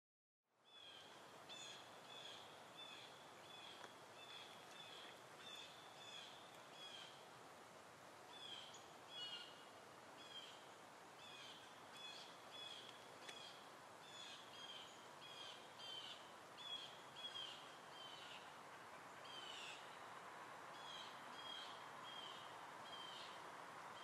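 Wild birds singing faintly, many short high chirps and trills repeating throughout, over a steady soft outdoor hiss that grows slightly louder near the end.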